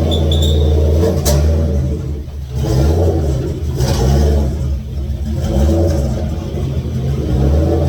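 Turbocharged Ford Mustang GT V8 running on E85 just after its first start, its engine note rising and falling as the throttle is blipped. A sharp crack a little over a second in.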